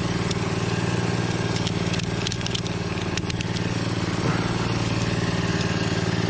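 An engine idling steadily, with a brief cluster of light clicks and crackles about two to three and a half seconds in.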